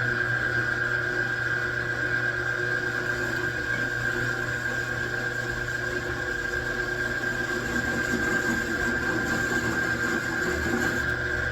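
A machine tool running steadily, with a constant hum and a high whine that holds one pitch throughout.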